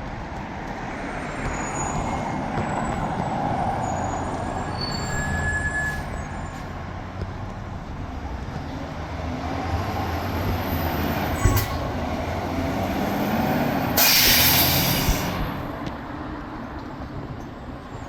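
2018 Pierce Velocity fire engine's diesel engine running as it drives by without a siren, with tyre and road noise. About fourteen seconds in, a loud hiss of air from the brakes lasts just over a second.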